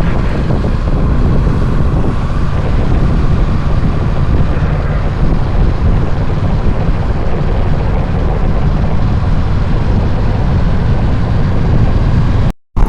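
Motorcycle riding: steady wind buffeting on the microphone over a low vehicle rumble, cutting out briefly near the end.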